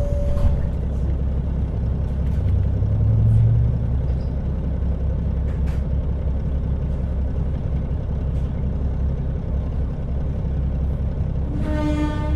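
KiHa 40 diesel railcar running along the line: a steady low engine and rolling rumble with scattered sharp clicks, and a low engine note that swells about three seconds in. Near the end a single pitched tone sounds for about a second.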